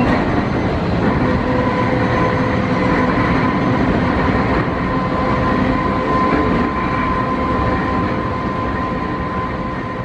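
Running noise heard from inside an Enoshima Electric Railway (Enoden) two-car train under way: steady rumble of the wheels on the rails with a steady whine, getting quieter over the last couple of seconds.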